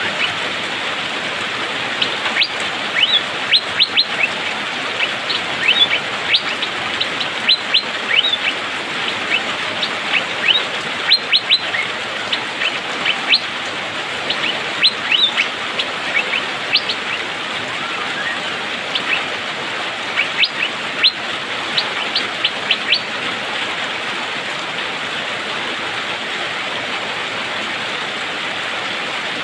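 Asian fairy-bluebird (cucak biru) calling in quick clusters of short, sharp 'pik-pik' notes, spaced by brief pauses, over a steady hiss.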